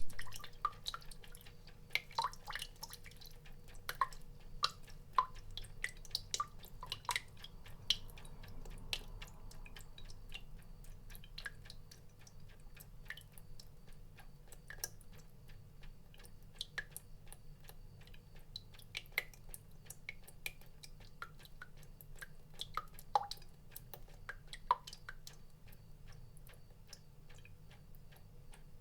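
Water drops falling and plinking irregularly, several a second, some with a short pitched ping, over a faint steady low hum.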